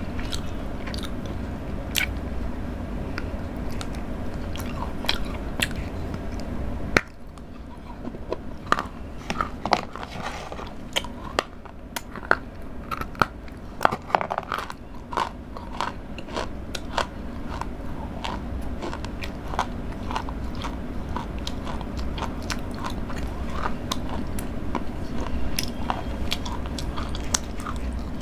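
Close-miked chewing of Cadbury Dairy Milk Silk Mousse chocolate: wet mouth smacks and many small, sharp clicks as pieces are bitten and chewed.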